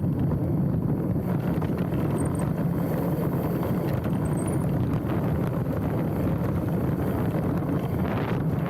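Specialized Stumpjumper mountain bike rolling fast down a dirt trail: steady low tyre rumble and drivetrain rattle with wind buffeting the handlebar-mounted microphone. A brief brighter hiss comes in near the end.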